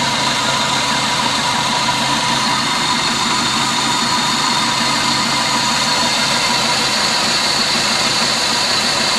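Dodge Neon's four-cylinder engine idling steadily, heard from the open engine bay. It is being run lean, with the EFIE cutting the fuel to the point where the engine chugs.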